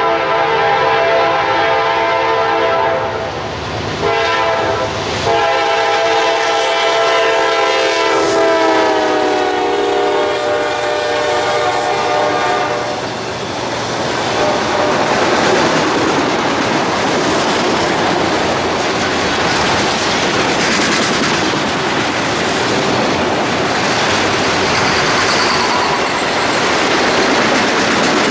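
A locomotive's multi-chime air horn blows as a train approaches, with a short break a few seconds in; the horn's pitch drops partway through as the locomotive passes. The horn stops and the rest of the train rolls past with a steady loud rush and clatter of wheels.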